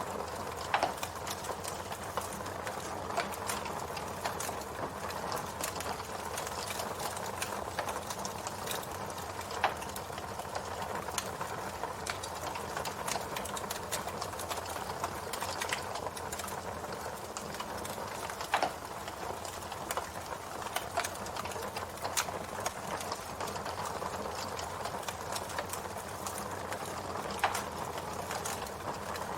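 Campfire burning: a steady hiss of flame dotted with many small crackles, and a few louder sharp pops from the burning wood spread through.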